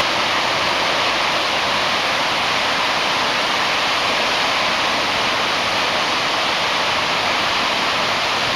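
Gullfoss waterfall: a steady, unbroken rush of falling water.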